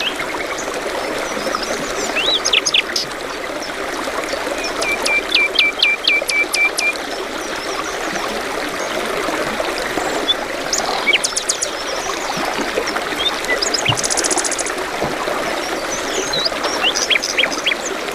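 A brook babbling steadily, with songbirds calling over it: a run of about eight evenly spaced chirps about five seconds in, a short, fast, very high trill about two-thirds of the way through, and scattered single chirps.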